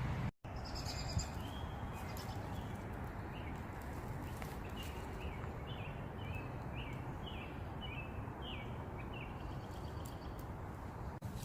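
A bird calling: a run of short, slightly falling chirps, about two a second for several seconds, over a steady outdoor background noise.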